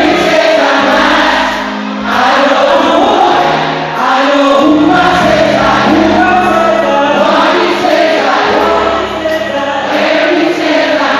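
Live gospel worship music: a choir singing held, swelling notes over steady low instrumental backing.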